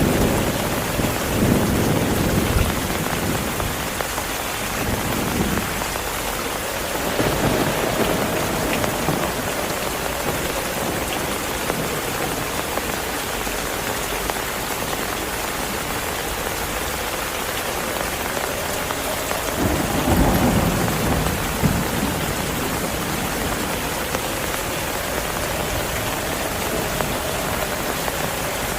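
Heavy rain falling steadily in a thunderstorm, with low rolls of thunder rumbling in the first few seconds and again about two-thirds of the way through.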